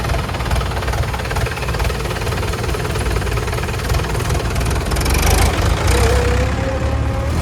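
Diesel engine of heavy machinery running steadily, with a rising whine coming in about five seconds in.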